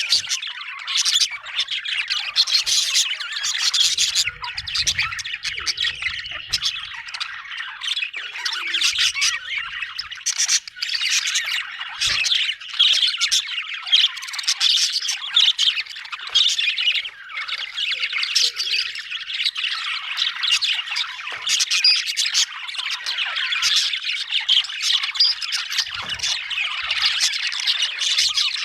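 Budgerigars chattering and warbling without pause: a dense stream of short chirps and scratchy squawks, several birds calling over one another.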